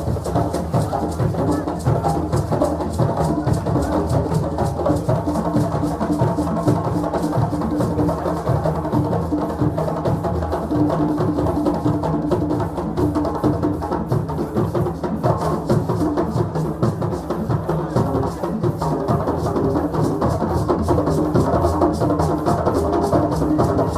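West African drum ensemble playing dense, continuous percussion with a steady rhythm.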